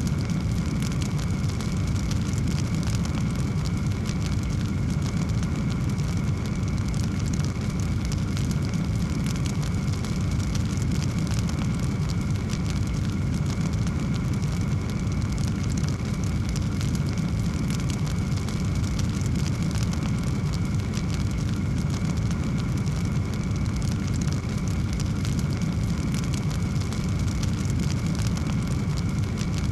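Wood fire in a fireplace crackling steadily: a dense run of small pops over an even low roar of the flames.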